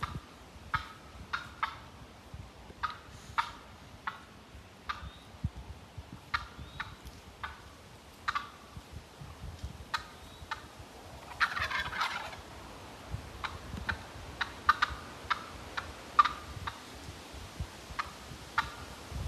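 Wild turkey gobbler gobbling once, a dense rattling call about twelve seconds in, among a run of short, sharp cluck-like notes repeated throughout.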